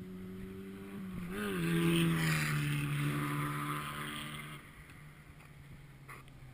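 Race car engine running with a steady hum, a brief rise in pitch just over a second in, then growing louder for about three seconds with the pitch sliding down before dropping back to a low, quieter hum.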